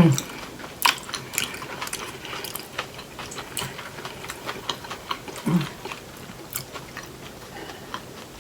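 Close-up crunching and chewing of fried onion rings: many sharp, irregular crisp crackles throughout. A brief low vocal sound is heard about five and a half seconds in.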